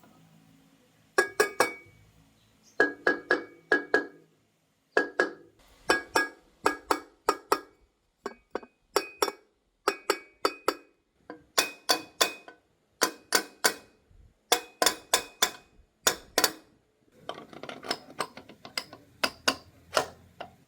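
Repeated bursts of quick metallic taps, three to five strikes at a time, each with a short ringing tone, as of a tool striking a metal engine part.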